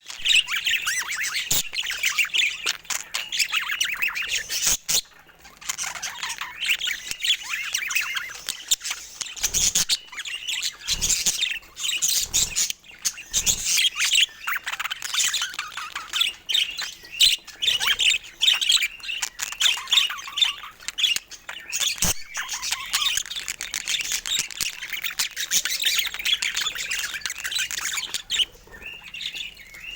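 A flock of pet budgerigars chattering, with a constant warble of chirps and squawks. A few short sharp knocks are scattered through it.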